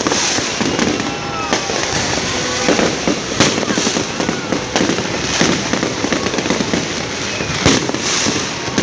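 Fireworks going off: dense, continuous crackling with a sharp bang every second or two.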